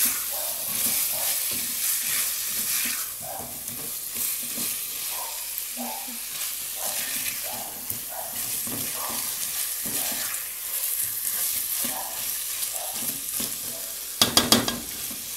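Small potatoes in tomato sauce sizzling in an aluminium pan while a silicone spatula stirs and scrapes them in repeated strokes. A quick run of sharp taps near the end.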